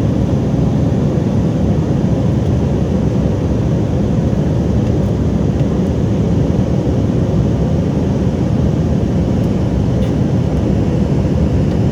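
Steady low rumble of jet airliner cabin noise in flight: engine and airflow noise, even throughout with no distinct events.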